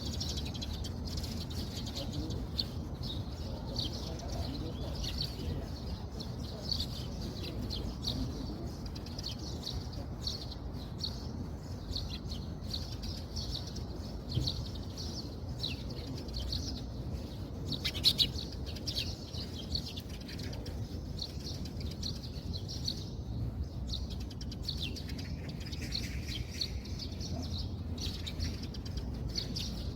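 Small birds chirping continually in quick short notes over a steady low rumble, with one sharp click about halfway through.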